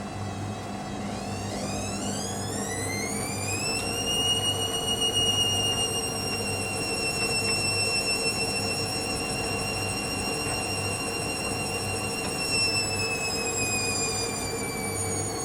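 Hoover Dynamic Next washing machine spinning, its motor whine rising over about three seconds as the drum speeds up. The whine then holds steady and slowly falls near the end, over a steady low hum.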